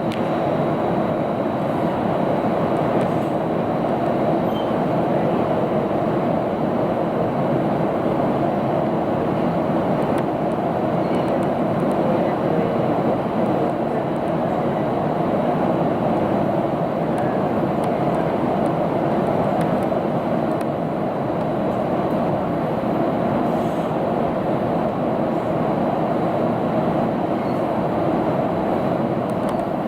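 Steady rumble of a moving commuter train heard from inside the passenger car, with a faint high whine held throughout.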